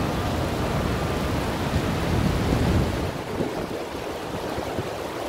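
Rain and wind outdoors: a steady hiss of rain with a heavy low rumble of wind on the microphone that eases about three seconds in.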